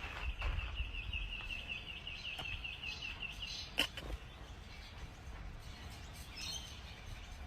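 Rapid high-pitched chirping, about six chirps a second, that stops after about three and a half seconds, followed by a single sharp click, over a low background rumble.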